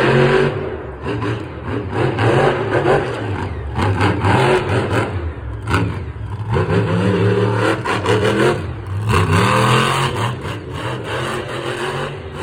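Monster truck engines revving hard, the pitch climbing and dropping again several times, with a rough roar that swells and fades between revs.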